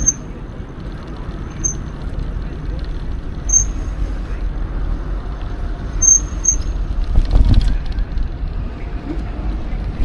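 Electric mountain bike riding a forest trail: a steady low rumble of wind on the microphone and tyres rolling. A few short high-pitched squeaks come through, and there is a heavier jolt about seven seconds in.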